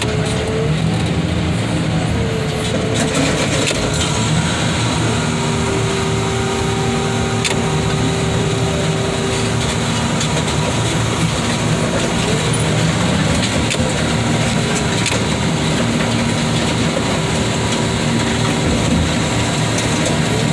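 Heavy car-crushing machinery running steadily: an engine and hydraulics with a whine that shifts in pitch now and then.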